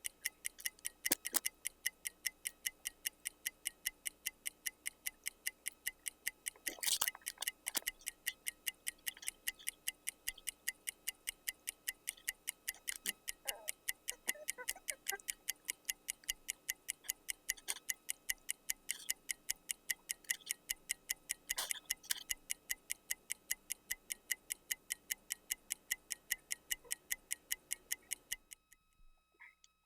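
Clock ticking fast and evenly, about four ticks a second, with a few louder knocks among them; the ticking cuts off suddenly near the end.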